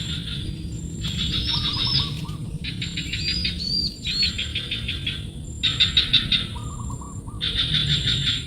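Bird chirping in rapid trills, in about five separate bursts of roughly a second each, some ending in quick rising notes, over a steady low hum.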